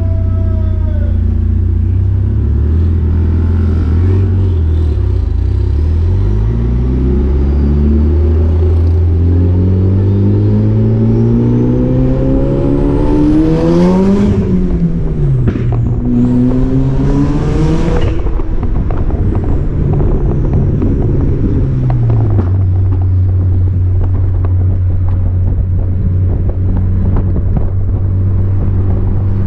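Turbocharged four-cylinder engine of a Mazda MX-5 NC with an open downpipe, heard from the open cabin: running steadily, then revving up in a long climb from about a quarter of the way in. It drops briefly near halfway, revs up again with a rushing hiss, and falls back to a steady low hum for the last third.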